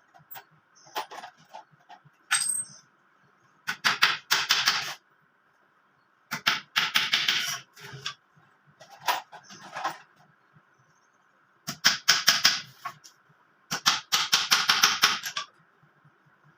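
Hammer tapping nails into a wooden cage frame in quick bursts of rapid strikes, each burst lasting about a second, with four main bursts and a few single taps between them.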